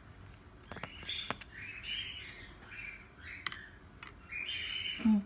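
Cockatiel chirping and chattering softly in short, raspy bursts, with a few sharp taps in between.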